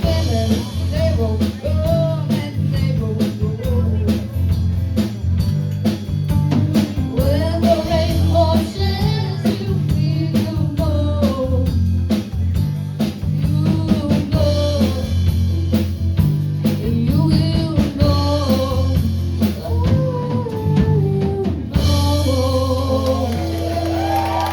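Live band playing a rock song with singing, drum kit, bass and guitar. About 22 seconds in the drumming stops and the band holds a final ringing chord.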